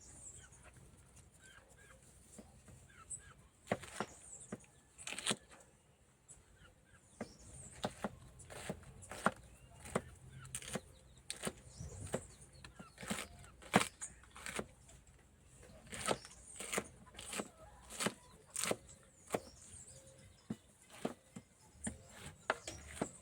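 Knife tapping on a cutting board while seasoning peppers are cut up: sharp, irregular knocks, sparse at first, then about one or two a second.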